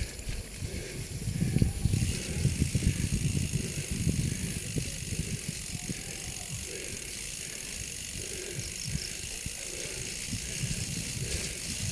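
Wind buffeting the microphone and road noise while riding a bicycle, in uneven gusts that are strongest in the first few seconds.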